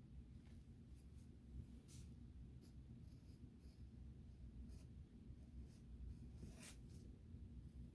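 Faint, short strokes of a marker or pencil tip on sketchbook paper while colouring, coming at irregular intervals, with one longer stroke about two-thirds of the way through. A low, steady room rumble lies underneath.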